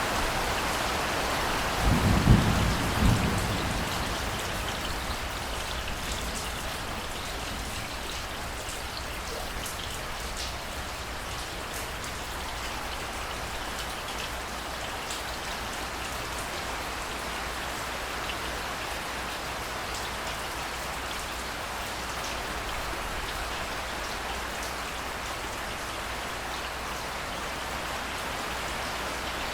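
Steady rain falling, with scattered drops ticking, and a short low rumble of thunder about two seconds in.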